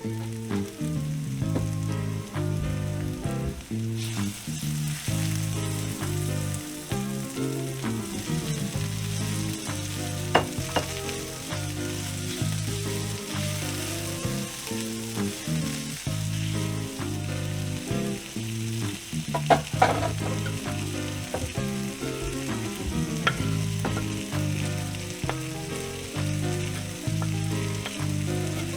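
Chopped vegetables and sausage sizzling and being stirred in a frying pan, with a couple of sharp clicks about ten and twenty seconds in, under steady background music.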